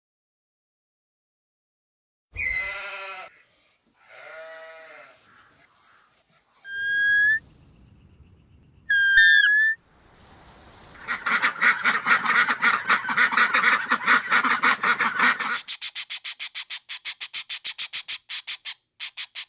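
Animal calls: a few short separate cries, two of them high whistled notes, then a long run of rapid pulsed chattering that lasts most of the second half.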